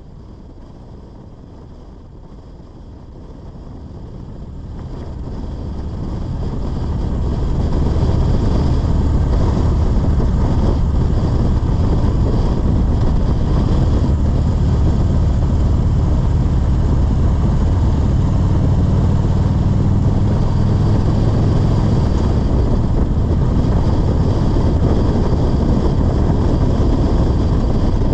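Motorcycle engine running under way, with road and wind noise. It fades in over the first several seconds, then runs steady and loud.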